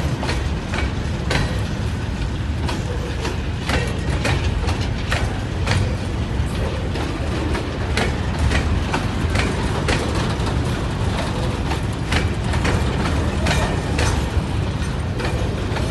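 Loaded coal freight train's wagons rolling past at close range: a steady heavy rumble of steel wheels on rail with irregular sharp metallic clicks and clanks.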